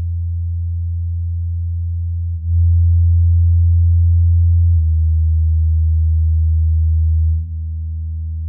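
Low bass test tones played through Edifier active speakers: steady low hums that change in step to a new tone three times, each held for about two and a half seconds, the middle ones louder.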